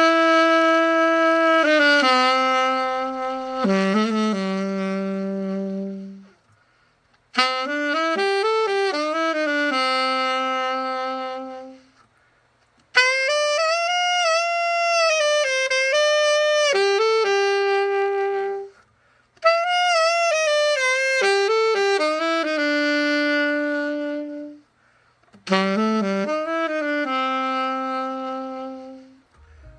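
Yamaha YAS-62S silver alto saxophone played unaccompanied: five melodic phrases of held and moving notes, each broken off by a short breath pause.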